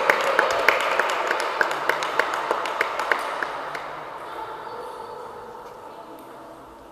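Table tennis ball clicking sharply, about three times a second, against the table and bats in a sports hall, with hall noise that fades away. The clicks stop about three and a half seconds in.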